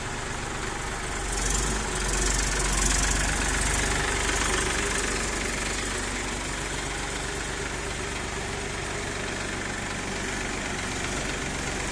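Massey Ferguson tractor diesel engine running, rising in level from about a second in while it works under load and settling to a steady run after about four seconds.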